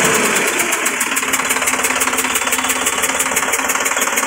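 Sonalika DI-50 RX tractor's 50 hp diesel engine idling with an even, rapid clatter, settling back to idle at the start after being revved.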